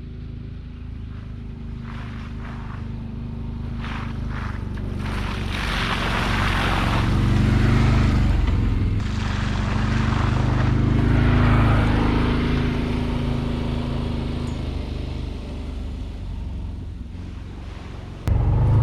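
Can-Am Defender HD10 side-by-side's V-twin engine running as it drives up a hill. It grows louder through the middle, eases off, then jumps louder just before the end.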